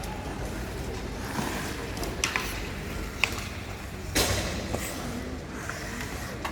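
Ice hockey play in a rink: sharp clacks of sticks and puck, a few in quick succession, then a louder crack about four seconds in, over the steady rumble of the arena.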